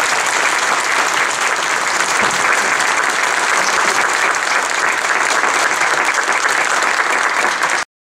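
Audience applauding, a steady dense clapping that cuts off suddenly near the end.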